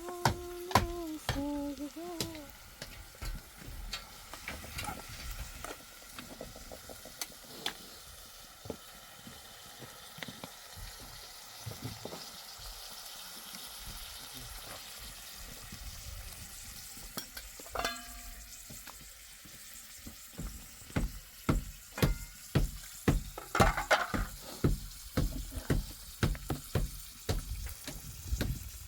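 Food frying in a pan with a steady sizzle, broken by scattered clicks and knocks of a utensil against the pan. From about two-thirds of the way in, sharper knocks come at roughly three every two seconds.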